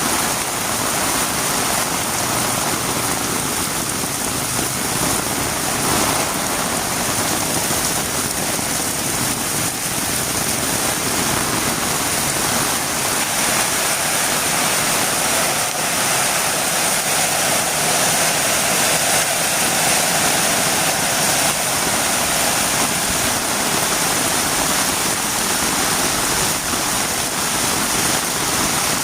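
Heavy rain falling steadily, a dense even hiss of drops on the ground with faint scattered patters.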